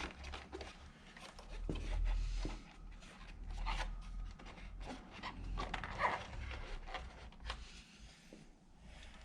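Rustling and handling noise with many small clicks and knocks, over a low rumble.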